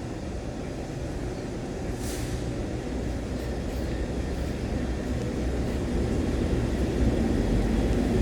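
Taiwan Railway EMU600-series electric multiple unit pulling away from the station, its low rumble growing steadily louder as it gathers speed. A short hiss comes about two seconds in.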